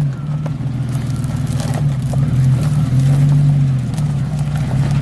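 Stock 1994 Jeep Cherokee XJ's engine running under load while crawling. The revs rise and fall several times as the throttle is worked.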